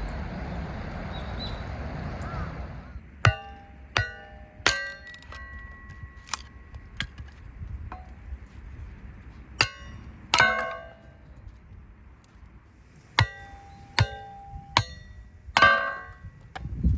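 Metal camping gear clanking as it is handled and set down, about a dozen sharp knocks, some leaving a brief ringing tone, with a loud cluster near the end. Before the knocks, a steady rushing noise cuts off about three seconds in.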